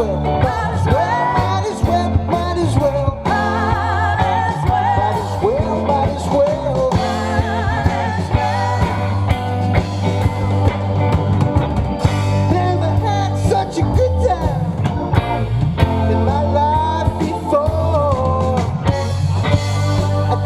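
Live rock band playing an instrumental passage after the sung verse: a bending electric-guitar lead over steady bass and a drum kit.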